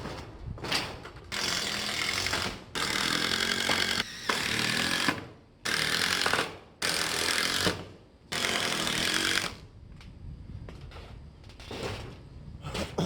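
Power drill driving 3-inch deck screws through a 2x4 into a tin roof, in about five runs of one to two and a half seconds each, starting and stopping sharply.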